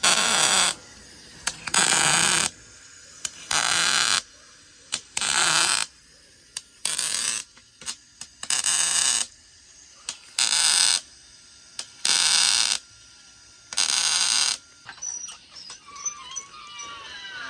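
Nine short bursts of hissing noise, each well under a second, repeating evenly about every second and a half to two seconds, with faint clicks between them.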